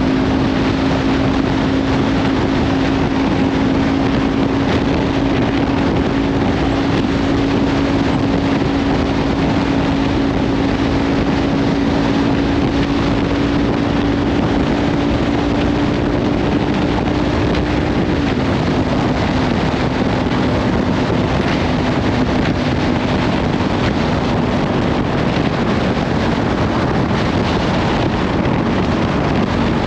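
Kawasaki Ninja 500's parallel-twin engine through a Leovince slip-on exhaust, running at steady road speed with its pitch slowly creeping up, then dropping suddenly about eighteen seconds in and carrying on lower. Heavy wind noise on the microphone runs over it.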